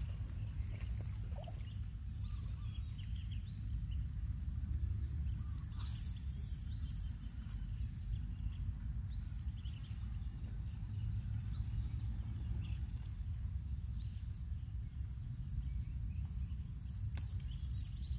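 A small bird calling over wind rumble on the microphone: scattered single high chirps, and two runs of rapid high-pitched chirping, about six seconds in and again near the end. A faint steady high whine runs underneath.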